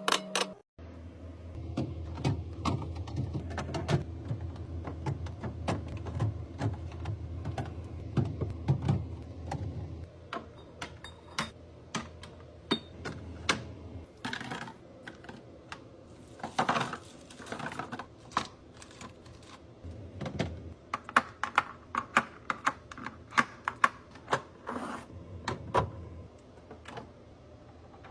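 Quick clicks, taps and light clatter of plastic containers, lids and packaging being handled and set down, several a second, over a low hum that stops about ten seconds in.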